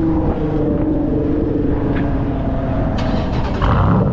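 Car engine idling through its exhaust, a steady low running note whose pitch eases down slightly.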